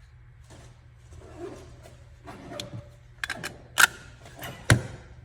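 Scattered mechanical clicks and handling noises, with two sharp loud clicks about four and five seconds in.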